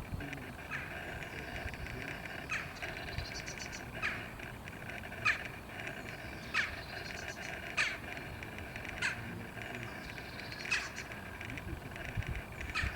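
A bird repeating a short, sharp call that sweeps steeply down in pitch, about every second and a half, over a steady high background chorus.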